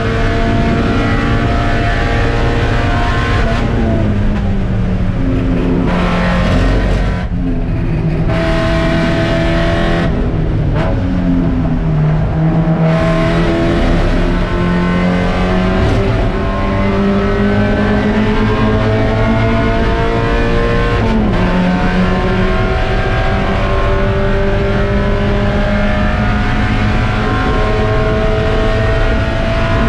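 Spec Miata race car's four-cylinder engine running hard at racing revs. It drops in pitch through braking and downshifts over the first third. It then climbs again, with upshifts about halfway through and again about two-thirds of the way in, and rises steadily after each.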